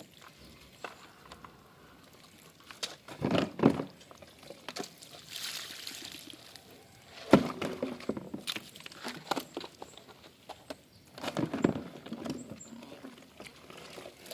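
Plastic vacuum-cleaner parts being handled in a basin of water: scattered splashes and knocks, the sharpest knock about seven seconds in.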